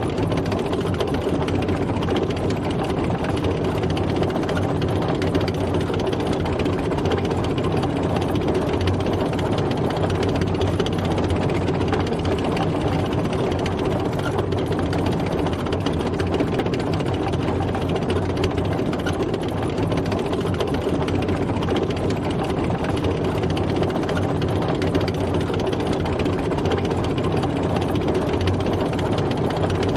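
A tank driving, its engine and running gear making a steady, unbroken mechanical noise with no changes in pace.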